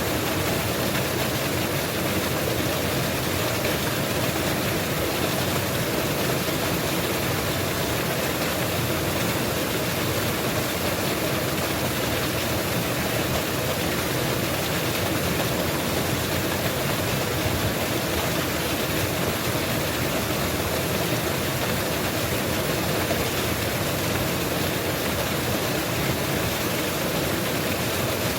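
Waterfall pouring steadily: an even, constant rush of falling water.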